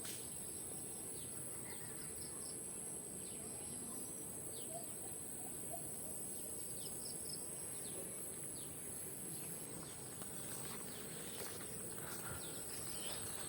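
Birds calling in scattered short, high chirps over a steady high-pitched drone of insects.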